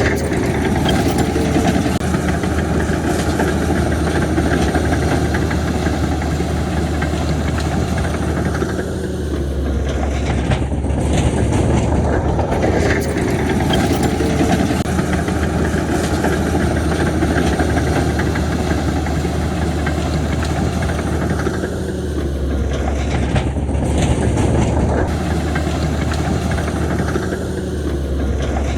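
Heavy diesel earthmoving machinery running steadily with a constant low rumble, the level dipping briefly a few times.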